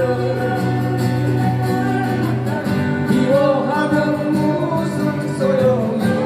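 Live music: a song sung over strummed acoustic guitars, the voice holding long, wavering notes.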